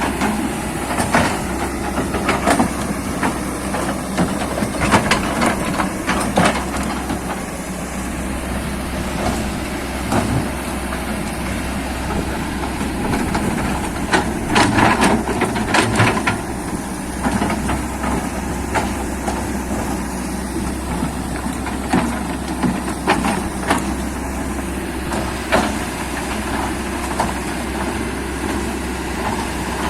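Excavator's diesel engine running steadily, with scattered metallic clanks and knocks from the machine working and a quick run of knocks about halfway through.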